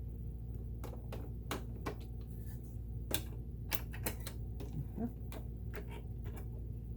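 Irregular sharp clicks and taps of small sewing machine parts being handled and fitted by hand during servicing, over a steady low hum.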